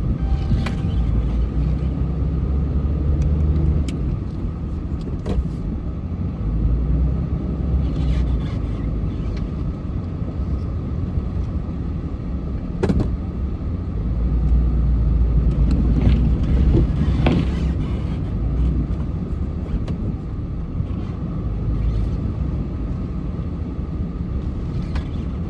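Car driving, a steady low rumble of engine and road that swells for a few seconds partway through, with a few scattered sharp clicks.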